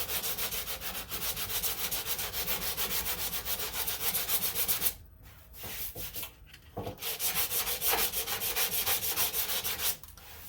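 Sandpaper on a hand sanding block rubbed over cured body filler on a car panel in quick back-and-forth strokes. The strokes pause briefly about halfway through, then resume.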